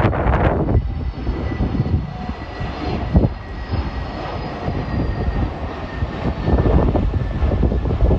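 Jet airliner engines: a loud, wavering rumble with a thin, steady high whine over it.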